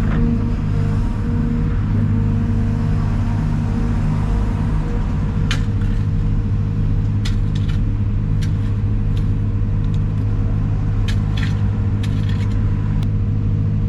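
Heavy diesel engine running steadily at an even speed. A scatter of light, sharp ticks and clicks comes in from about halfway through.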